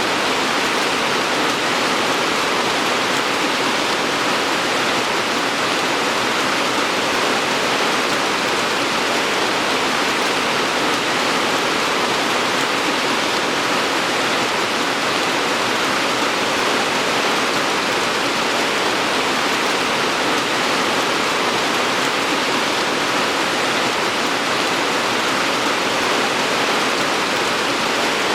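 Steady heavy rain, an even wash of falling water with no distinct drops or changes.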